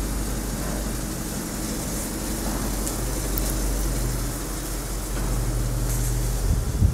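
Audi Q7's engine running as the SUV pulls away slowly, a steady low drone that grows a little louder about five seconds in, with a short heavy thump just before the end.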